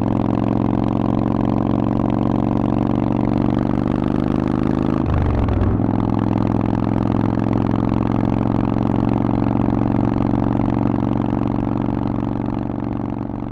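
Harley-Davidson Forty-Eight's air-cooled 1200 cc V-twin, breathing through a Vance and Hines exhaust, idling at a steady, unchanging pitch. There is a brief rough patch about five seconds in, and the sound fades out near the end.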